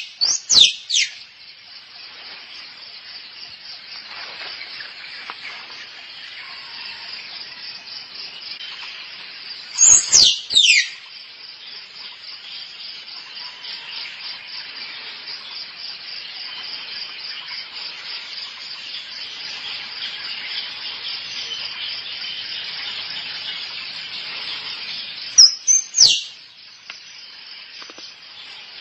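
Squirrel calling: clusters of sharp, high chirps that sweep steeply downward in pitch, heard three times (at the start, about ten seconds in, and near the end), over a steady pulsing insect chorus.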